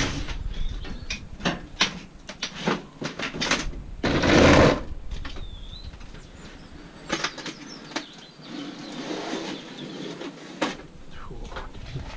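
Clanks and knocks of scrap metal being handled and taken apart by hand, with a louder burst of noise about four seconds in.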